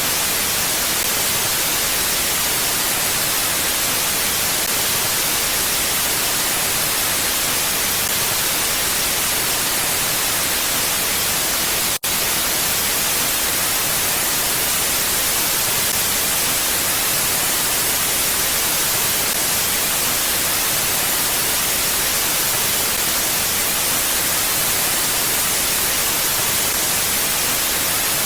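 Steady, even hiss of wind noise with no gusts, close to white noise and strongest in the highs. A momentary dropout about twelve seconds in is likely a loop splice.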